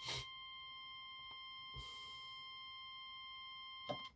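Electrical installation tester giving a steady high-pitched beep while it applies test voltage for a global insulation resistance test between live and earth. The tone cuts off with a click near the end.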